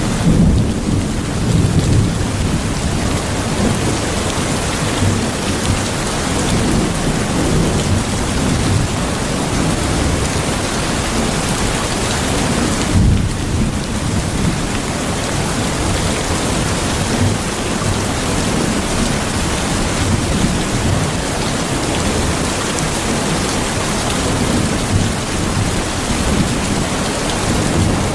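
Steady rain with low thunder rumbling and rolling on underneath.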